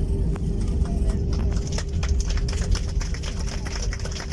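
Airbus A321-200 cabin on the ground after landing: a steady low rumble and a constant engine hum, with a rapid, irregular patter of clicks starting about a second in.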